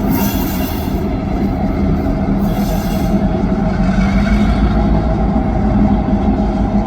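EMD GP38-2 diesel locomotive running with its train, a steady engine sound with a strong low hum throughout.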